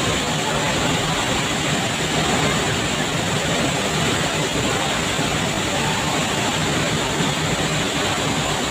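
Steady, unbroken rush of a large waterfall, the water pouring down without letting up.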